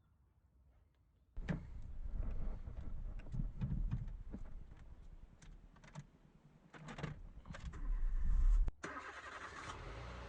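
Nissan Micra 1.2 petrol engine starting and running unevenly, with clicks and knocks over it; it stops suddenly near the end, leaving a steadier hiss.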